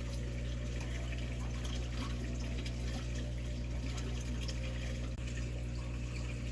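Aquarium water flowing steadily, with a low steady hum from the tank's pump.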